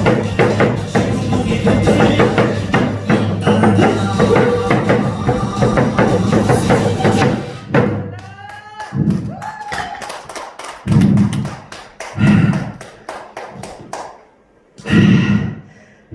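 Loud drumming over backing music, which stops about halfway through. Then come four separate heavy thuds a second or two apart.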